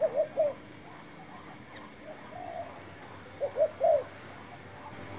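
Spotted dove cooing: a phrase of three short coos right at the start and another three-note phrase about three and a half seconds in, with a faint coo between them. A steady high-pitched hiss runs underneath.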